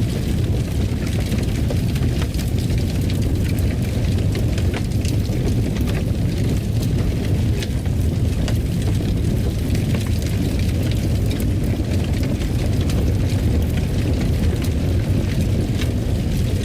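Fireplace fire burning with a steady low rumble and frequent small crackles and pops.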